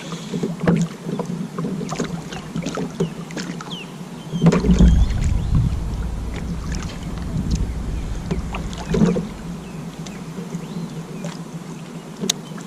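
Handling noises in a kayak: scattered clicks and knocks of gear and hull, with heavier thumps about four and a half seconds in and again about nine seconds in, and a low rumble after the first thump.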